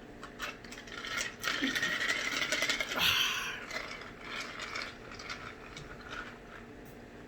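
Crunchy snack mix of chips, cheese doodles and pretzels being chewed close to the microphone: a dense run of crackling crunches that is heaviest in the first few seconds, then thins out to scattered crunches.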